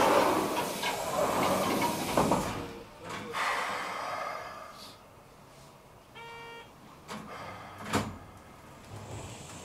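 Keikyu 800-series train at a platform: sliding doors closing amid a noisy rush for the first couple of seconds, then a short buzzer about six seconds in and a sharp clunk about two seconds later. Near the end the field-chopper traction motors begin a rising whine as the train starts to move.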